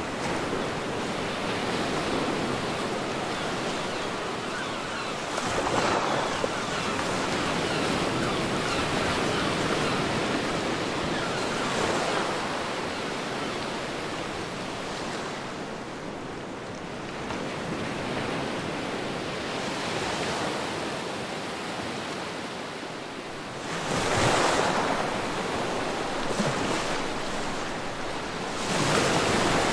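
Ocean surf washing in and pulling back on a beach, a continuous rush of water that swells and eases, with several stronger breaking waves along the way.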